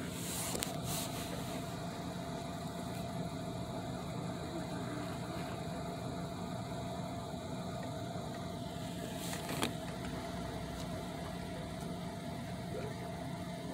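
Car engine idling steadily, heard from inside the cabin, with a few brief clicks and one sharper click about two-thirds of the way through.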